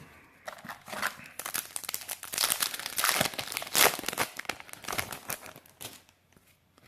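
Foil Yu-Gi-Oh booster pack wrapper crinkling and tearing as it is opened by hand, a dense crackle that dies away about a second before the end.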